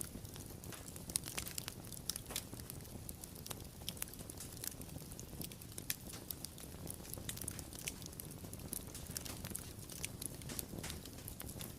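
Wood fire crackling: frequent sharp pops and snaps over a soft low rumble of flames.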